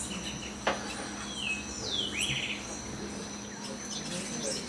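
A bird calling: a short note sliding down, then a longer rough note sweeping down from high to mid pitch, about a second and a half in. A steady high insect whine runs underneath, and a sharp click comes just before the calls.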